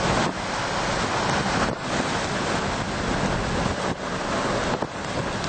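Strong gusting wind from a severe thunderstorm's gust front and gustnado, blowing hard across the microphone as a dense, steady rush of noise with a few brief lulls.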